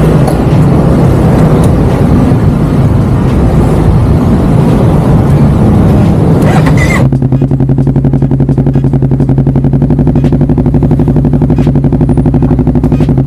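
Honda CBR250RR motorcycle through a DST aftermarket exhaust, running loud and rough for about seven seconds. It then drops abruptly to a steady idle with an even, pulsing exhaust beat.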